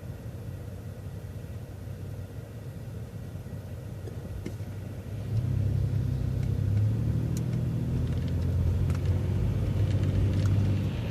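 MCO ViewMaster bus's engine running with a low rumble; about five seconds in it grows clearly louder as the bus accelerates, with a few light clicks and rattles.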